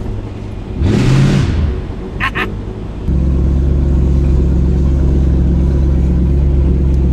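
Car engine running while cruising, with a short burst of revving about a second in; from about three seconds in a steady low engine drone holds at constant pitch.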